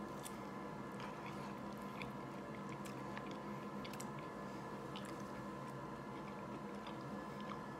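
Close-up chewing of a mouthful of food, with small wet mouth clicks scattered throughout, over a steady background hum.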